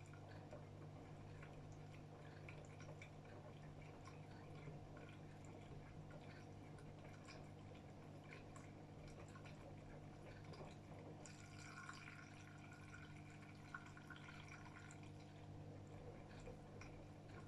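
Faint water sloshing and dripping inside a 2007 AEG Öko-Lavamat front-loading washing machine during a 40° wash, over a steady low hum, with a brief patch of brighter splashes and ticks about two-thirds of the way through.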